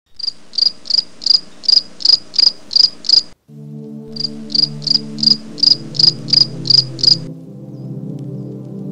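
Insect chirping: a high chirp repeated about three times a second, cutting off abruptly after about three seconds. Music with steady low tones then comes in, the chirps carrying on over it until about seven seconds in, after which only the music remains.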